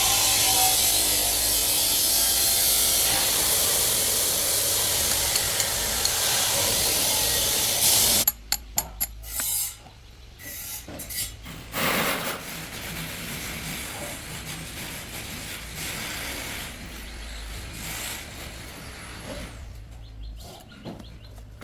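A handheld power tool runs against a metal part with a loud, even abrasive noise for about eight seconds, then cuts off. A few sharp clicks and lighter scraping and tool-handling sounds follow.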